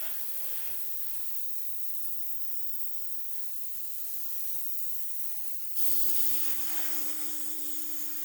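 Steady spray hiss from a nozzle. About six seconds in it suddenly gets louder, and a steady hum from a small motor starts alongside it.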